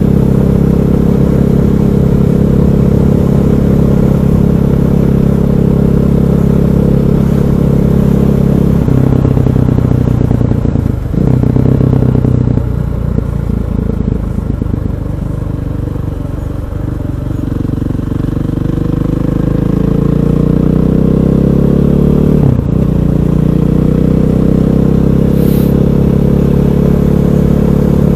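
KTM 500 EXC's single-cylinder four-stroke engine running while the bike is ridden. It holds a steady note, eases off and goes quieter about halfway, then climbs in pitch as the rider accelerates again and settles back into a steady run.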